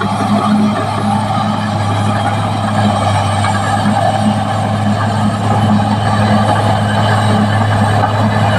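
Caterpillar D6R XL bulldozer's diesel engine running steadily with a constant low hum.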